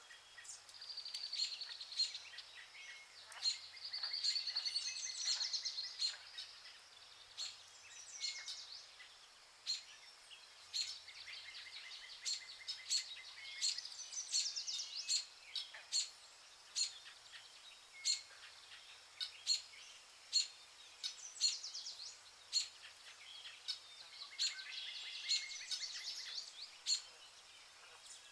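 Birds singing: short sharp chirps about once a second, with several longer warbling, trilling songs in bouts of a few seconds.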